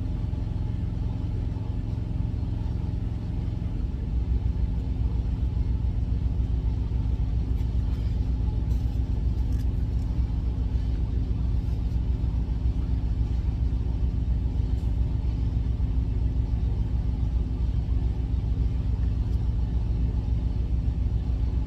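Idling truck engine: a steady low rumble with a constant low hum, heavier from about four seconds in, with a few faint clicks of handling about halfway through.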